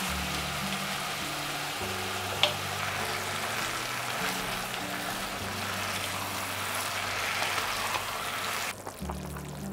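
Pork and vegetables frying in a pot with a steady sizzle, and one sharp knock of the spatula about two and a half seconds in. Near the end the sizzle cuts off suddenly, giving way to quieter bubbling of simmering broth. Soft background music with long low notes plays throughout.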